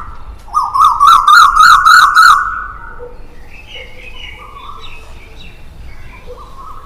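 Several birds calling: loud, rapid chirping for the first two and a half seconds, then fainter scattered chirps and calls.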